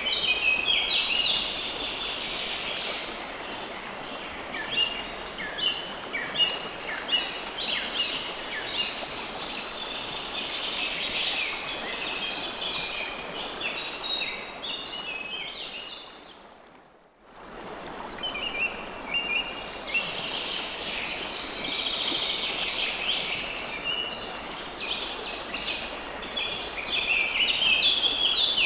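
River water flowing steadily with many birds chirping over it in quick, overlapping calls. Just over halfway through, everything fades out briefly, then comes back with the birds and water.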